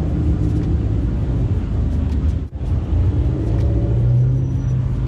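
Car engine idling with a steady low hum. It cuts out briefly about halfway through, then comes back a little stronger.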